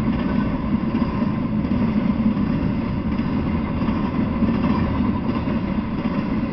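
Intermodal freight train cars rolling past at speed: a steady rumble of steel wheels on the rails.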